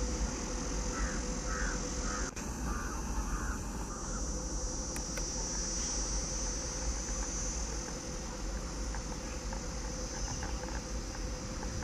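Outdoor ambience: a bird calls about five times in quick succession about a second in, over a steady high insect drone and a low background rumble.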